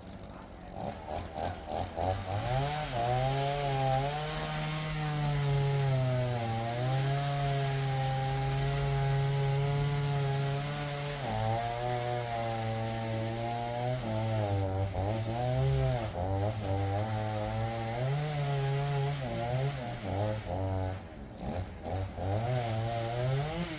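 Makkie 38cc two-stroke chainsaw running at high revs while cutting logs, its pitch sagging under load and climbing back again several times.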